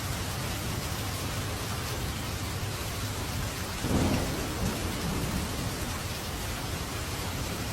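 Steady rain falling with a low rumble of thunder, swelling to a louder thunderclap about four seconds in and rolling away.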